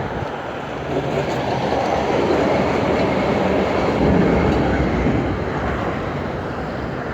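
Wind rush and road noise from riding a bicycle through city traffic, with a passing vehicle's rumble swelling to its loudest about four seconds in and then easing off.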